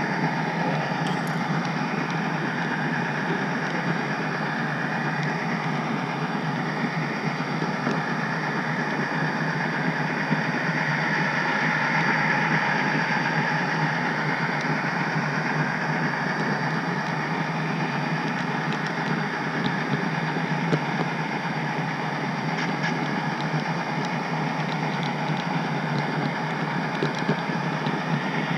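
HO-scale model train running steadily along the track: a continuous mechanical whir and rumble of the model's running gear, with a few faint clicks from the wheels on the rails.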